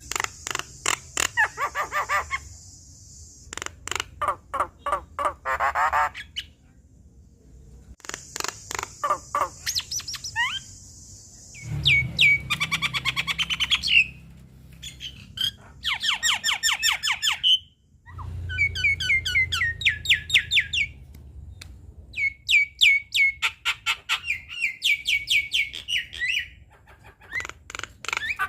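Javan myna singing a varied, mimic-filled song: bursts of rapid repeated chattering notes, harsh hissy squawks and short whistles, broken by brief pauses.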